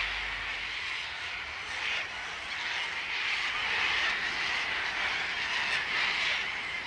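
A large flock of cockatoos screeching together, a dense steady din with no single call standing out.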